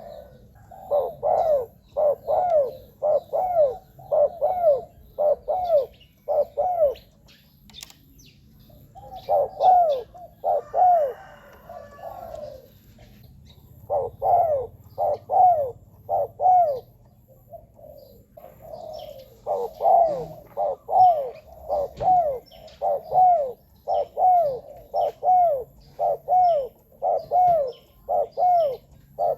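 Spotted dove cooing in runs of short, rising-and-falling coos, about two a second, with a few brief pauses. This is the calling of a decoy dove used to lure wild doves. Faint chirps of other small birds sound behind it.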